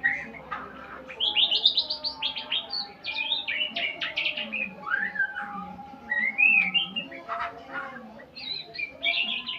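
A murai songbird singing a varied song of fast rattling note series and clear gliding whistles.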